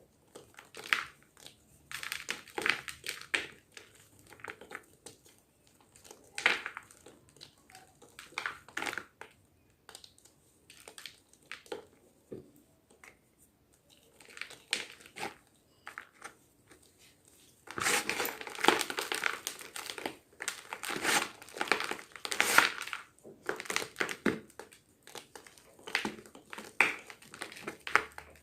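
Block of fresh gym chalk being crushed, giving irregular crunches and crumbles, busiest and loudest in a dense run about two-thirds of the way through.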